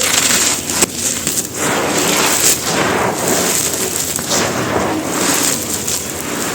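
Big chunks of soft, gravel-textured cement ('bajri stones') crumbling and crunching: a dense gritty crackle that swells in waves about once a second, with a sharp crack about a second in.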